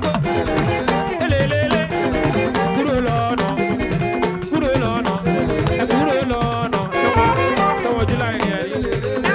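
Upbeat live band music: a saxophone plays a bending melodic line over drums, with a shaker rattling in a steady rhythm.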